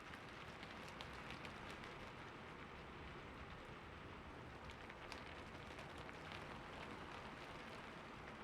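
Steady rain falling, a soft even hiss with the ticks of individual drops striking a surface.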